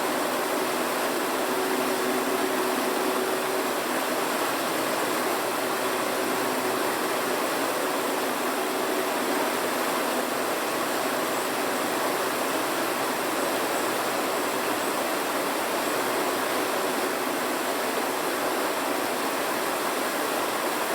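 Steady rushing noise at an even level, with a faint low hum under it.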